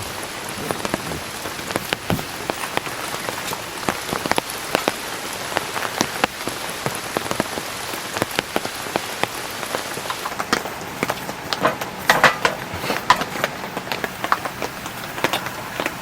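Heavy rain falling on a tent, a steady hiss with many separate drops tapping sharply, a short burst of louder taps near the end.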